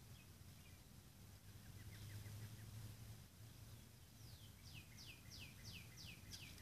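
Faint wild birdsong: a brief run of quick chirps about two seconds in, then a series of about nine falling whistled notes, roughly three a second, near the end.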